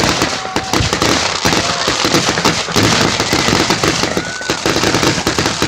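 Fireworks going off in quick succession: a dense, continuous crackle of many small bangs.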